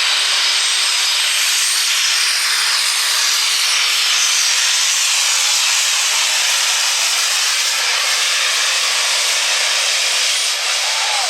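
Ford super stock diesel 4x4 pulling truck at full throttle under load on a pull, a loud, steady, screaming engine and exhaust noise with a high turbocharger whistle over it.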